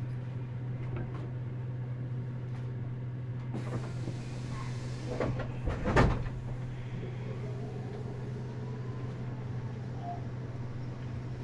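Meitetsu 100 series commuter train standing at a platform with its doors open: a steady low hum from its onboard equipment. A hiss builds a few seconds in and ends in a single loud clunk about six seconds in.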